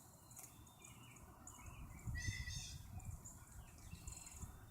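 Outdoor birds chirping, with a louder cluster of chirps about two seconds in, over a faint low rumble.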